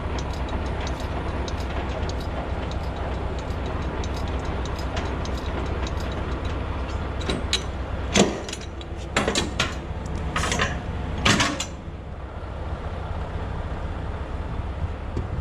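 Semi truck's diesel engine idling with a steady low rumble, with light regular ticking over the first half and a few loud knocks a little past the middle.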